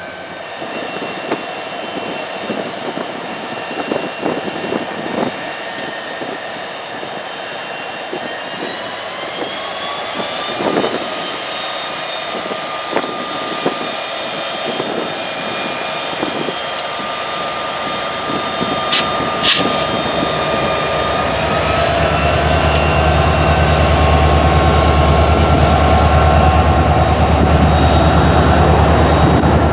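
Turbocharged EMD diesel locomotives, an SD40-2 and a GP50, under power while switching. The turbocharger whine rises in pitch about a third of the way in and again about two-thirds in as the throttle is notched up, and the engines grow louder and deeper near the end as they load. Scattered metallic clicks and clanks are heard through the first half.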